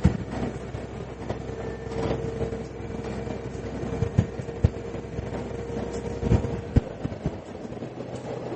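Diesel railcar running along the line, heard from inside the carriage: a steady engine and running hum with a held whine, crossed by irregular sharp knocks from the wheels over rail joints. Near the end the low drone drops away.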